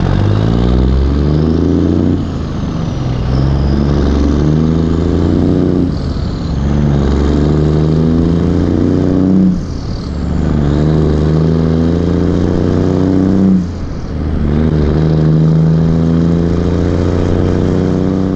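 Backhoe's diesel engine running under load, its note sagging briefly and recovering every three to four seconds.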